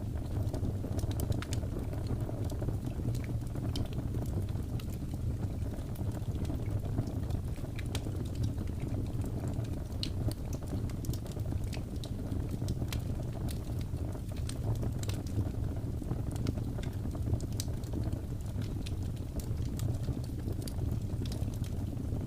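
Wood fire crackling, with frequent small, irregular pops and snaps over a steady low rumble of howling wind from a snowstorm.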